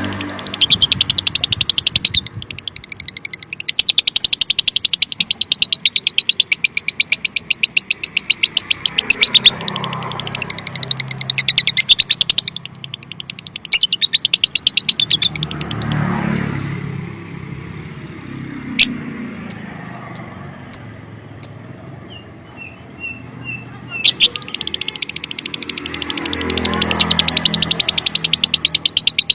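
Lovebird singing its long, rapid chattering trill: a fast stream of sharp high chirps in long runs. It breaks off for several seconds around the middle, with only a few sharp clicks and soft chirps, then starts again near the end.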